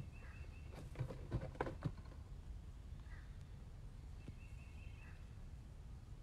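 Birds calling outdoors: a cluster of short, harsh calls about a second in, then a couple of thin, high, steady notes later, over a low wind rumble.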